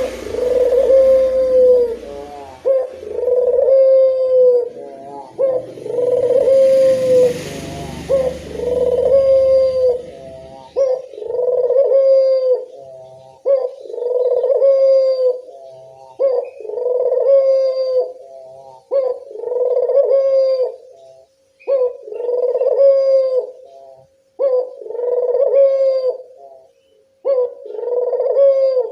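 Puter dove (collared dove) cooing, the same call repeated about every two and a half seconds, about a dozen times. A faint hiss and low rumble lie under the calls in the first ten seconds.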